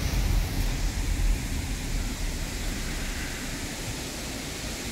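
Steady rushing noise of a waterfall, with a low rumble underneath that is strongest in the first second or so.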